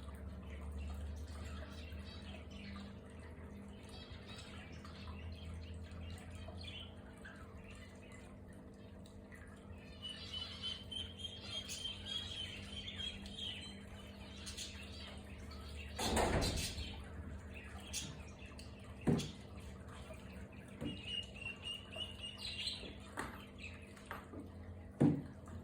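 Small aviary birds chirping and calling in short notes, with two brief high trills, over a faint steady hum. A few knocks break in, the loudest about two-thirds of the way through.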